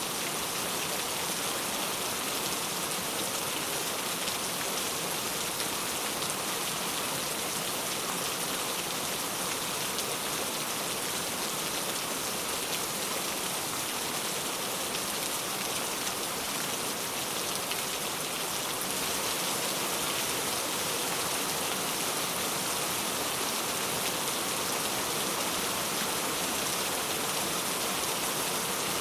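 Heavy rain falling steadily, a dense even hiss of drops on surfaces with fine individual drop ticks.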